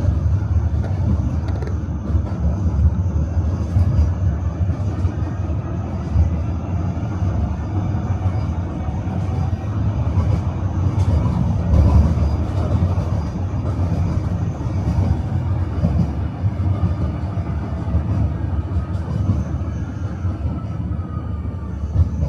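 Tram running along its rails: a steady low rumble of steel wheels on track with scattered light clicks, and a faint whine that rises and falls near the start and again near the end.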